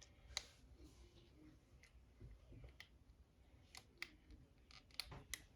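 Quiet, scattered light clicks from small plastic kit parts being handled and fitted together, about half a dozen over a few seconds.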